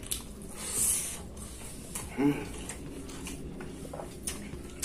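Close-miked chewing and wet mouth clicks of a man eating grilled pork satay, with a brief hiss of breath just under a second in and a short vocal sound about two seconds in.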